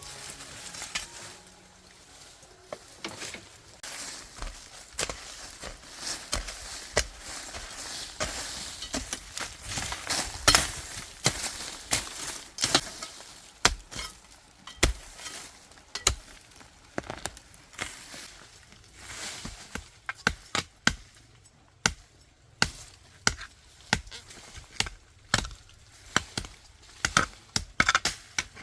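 Repeated sharp knocks of a tool striking, irregular at about one or two blows a second; the loudest comes about ten seconds in, and the blows come more cleanly spaced in the second half.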